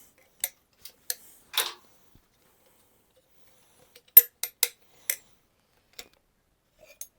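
Light metallic clicks and clinks of hand tools and fork parts being handled: about four scattered knocks, a pause of a couple of seconds, then a quicker run of five, the sharpest about four seconds in.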